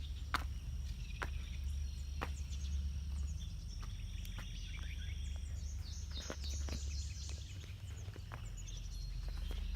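Birds chirping over a steady low rumble, with scattered sharp clicks. A run of quick chirps comes about six to seven seconds in.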